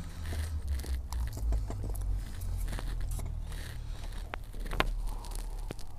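Close-up chewing of a chocolate pastry tube filled with cottage cheese, with a few sharp mouth clicks and small crunches scattered through it. A low steady hum runs underneath.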